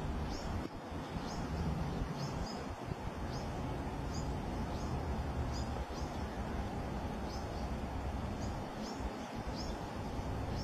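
Short, high bird chirps repeated every second or so over a steady background of noise and low hum.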